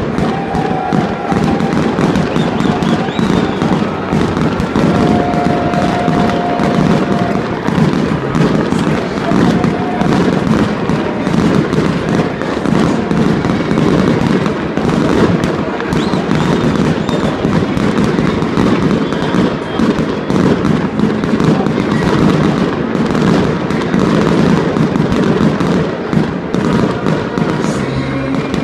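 Aerial fireworks going off in a dense, continuous barrage of overlapping bangs and crackles, with no pause.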